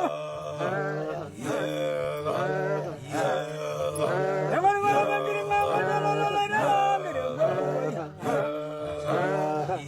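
Men chanting in the Maa tradition: short sung phrases repeated over and over above a steady low drone.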